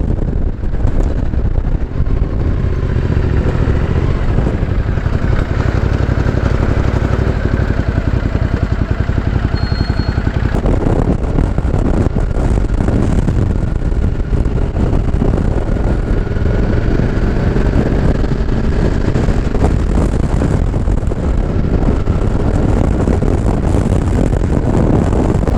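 Ducati Multistrada 1200S's L-twin engine running under way, its note rising and falling with speed, under steady wind rumble on the helmet microphone.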